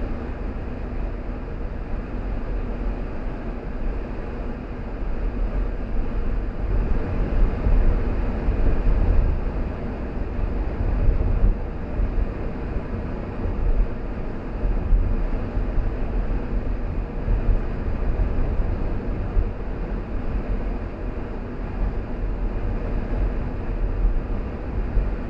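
Car driving on a road: a steady low rumble of engine and tyre noise that swells and eases slightly as it goes, with a faint steady hum.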